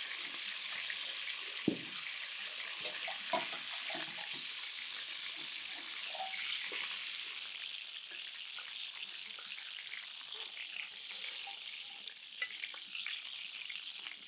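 Flattened chicken sizzling in hot oil in a cast-iron pan, a steady frying hiss. A couple of sharp clinks come in the first few seconds.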